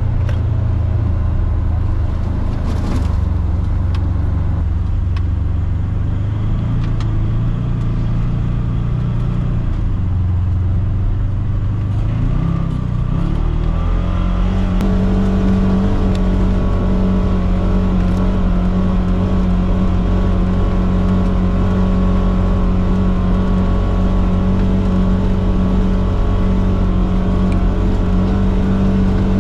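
Polaris Xpedition side-by-side's engine running as it drives, its pitch climbing about halfway through as it speeds up, then holding steady at the higher speed.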